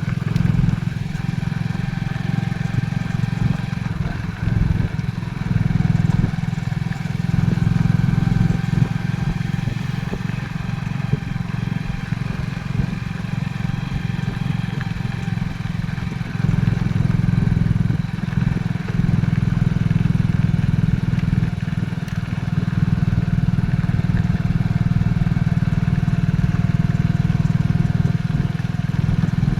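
Motorcycle running steadily on the move, a continuous low engine drone with the level swelling and easing a little as the ride goes on.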